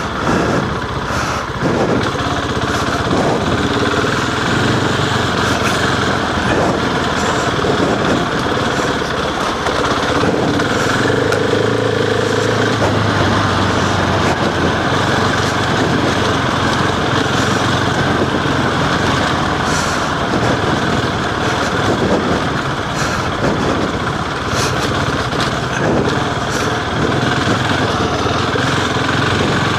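Husqvarna 701 single-cylinder motorcycle engine running steadily as the bike is ridden along a lane, under a continuous rush of noise.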